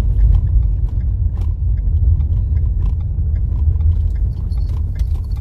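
A car driving on a rough dirt road: a steady low rumble from the tyres and engine, with scattered small knocks and rattles.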